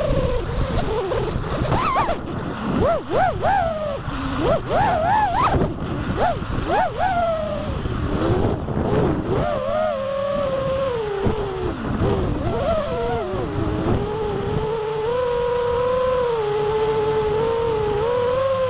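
FPV quadcopter's brushless motors and propellers whining, the pitch swooping up and down quickly with bursts of throttle, then settling into a steadier tone in the last few seconds. Low wind rumble underneath.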